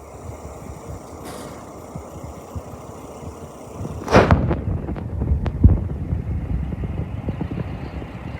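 Handling noise on the camera microphone: a loud thump about four seconds in, then smaller knocks and low rumbling.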